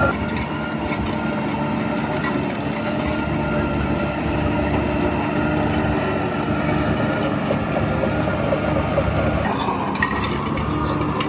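Heavy diesel engine of earthmoving machinery running steadily. About nine and a half seconds in, a whine rises in pitch for about a second.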